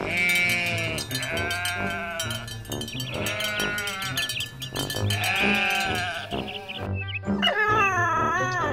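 A sheep bleating: four long, wavering bleats in a row, then a higher, more quavering call near the end, over background music with a steady beat.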